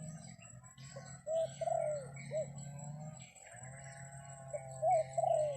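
A dove cooing: two runs of short, rounded coo notes, one about a second in and another near the end, over a steady low hum.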